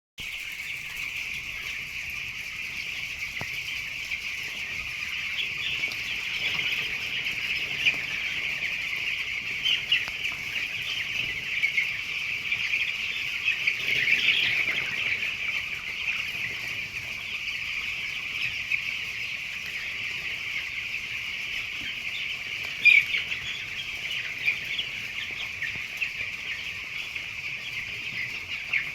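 A large flock of young broiler chicks peeping continuously, many high calls overlapping into a steady chorus, with a louder sharp sound about two-thirds of the way through.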